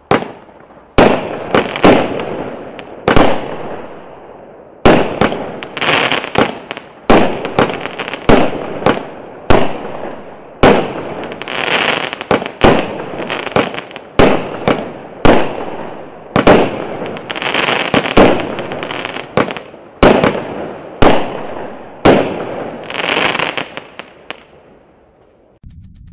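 A 16-shot firework cake firing its volley: a steady run of sharp bangs from the shells launching and bursting, each trailing off, one every half second to a second, stopping about 25 seconds in.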